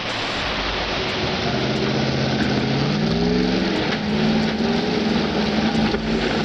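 GAZ-66 army truck's V8 engine working hard while fording a river, its note wavering up and down over a steady rushing noise of water.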